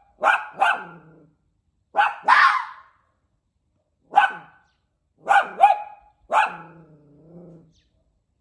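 A fox raised among dogs barking in short, pitched barks, often in quick pairs, about eight in all. The last bark trails off into a lower drawn-out call.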